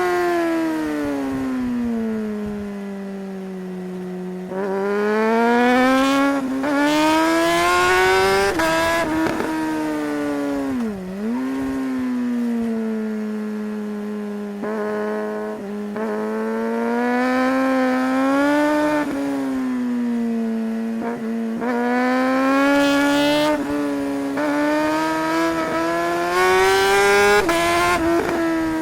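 Suzuki GSR 600's inline-four engine heard from the rider's seat, running hard on a twisty road. Its pitch falls off for the first few seconds, then climbs and drops again and again as the bike accelerates and slows through the bends. Brief sharp dips in pitch come with the gear changes.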